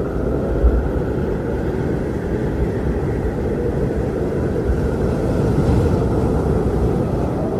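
Strong wind blowing in steady gusts, a deep rumble with a faint higher whistle.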